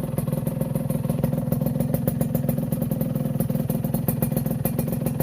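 Suzuki Satria 120 two-stroke single-cylinder engine idling steadily through a 'standard racing' aftermarket exhaust, with a fast, even popping of exhaust pulses.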